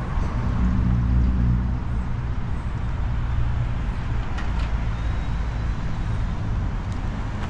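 Downtown street traffic: a motor vehicle's engine running close by, loudest in the first two seconds, over a steady traffic rumble.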